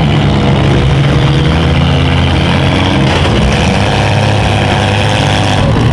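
Small cars' engines running hard in a demolition derby heat: a loud, steady engine drone whose pitch shifts a little as the engines rev.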